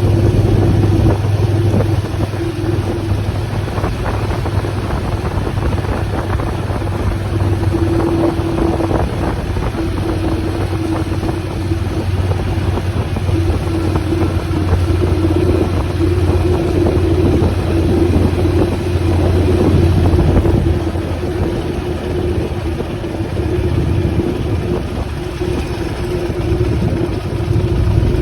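Motorcycle engine running steadily at a constant pitch, as at a steady road speed.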